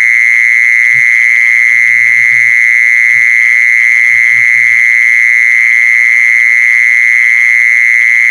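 A calling insect, the "jee-sorn" (แมลงจีซอน), producing a continuous, loud, high-pitched buzzing trill that holds one pitch without a break. A few faint low murmurs sit underneath it.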